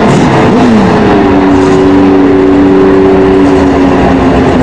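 Car engine running loud and steady. Its pitch drops about a second in, then holds at the lower note.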